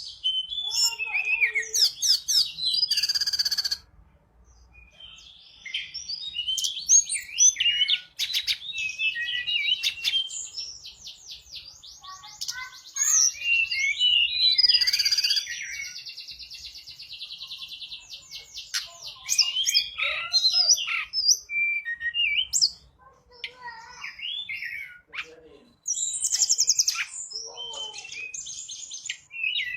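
A tledekan gunung singing vigorously: varied phrases of quick chirps, sweeping whistles and fast trills, broken by short pauses.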